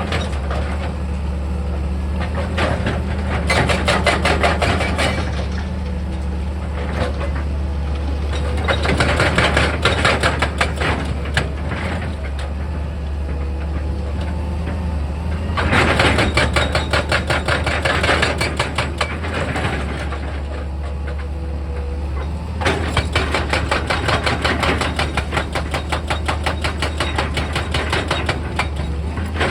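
Excavator's diesel engine running steadily, with four spells of fast rattling and clanking from the machine as it works.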